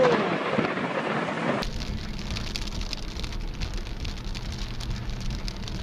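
Heavy rain pelting a car's windscreen and roof, heard from inside the car, over a low steady rumble. At the very start, before the cut to the car, a shouted voice trails off over storm noise.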